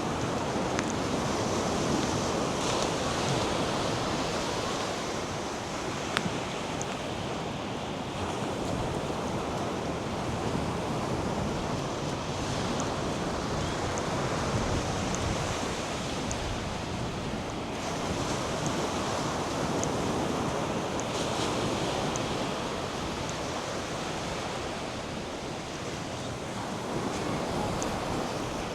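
North Sea surf washing onto a sandy beach, a steady rush of water that swells and eases slowly as the waves come in, with some wind.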